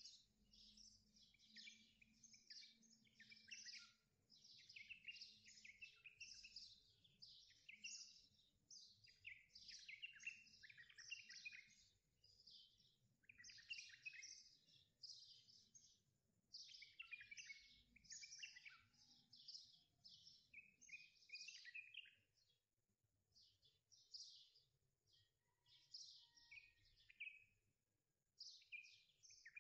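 Faint birdsong: small birds chirping and twittering in quick overlapping calls, almost without a break except for a few short pauses.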